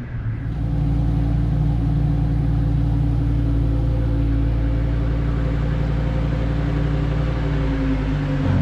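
A car engine running steadily at a constant low speed, its note picking up slightly about half a second in.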